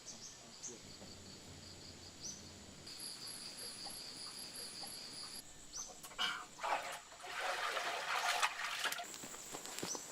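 Insects, crickets, trilling steadily at a high pitch, joined for a couple of seconds by a second, pulsing chirp. Near the end a louder burst of rustling noise covers them for about three seconds.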